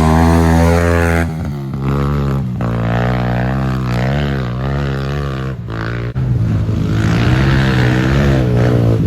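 Pit bike engine revving hard under load on a hill climb. Its pitch rises and falls unevenly as the throttle is worked, with short drops about a second in and again around six seconds in.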